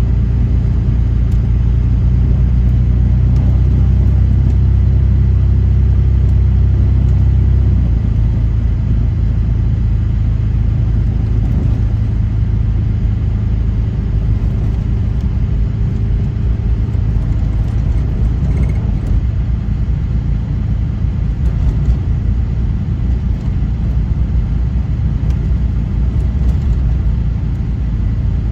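Car driving, a steady low engine and road rumble; the steady low drone drops away about eight seconds in, leaving a rougher rumble.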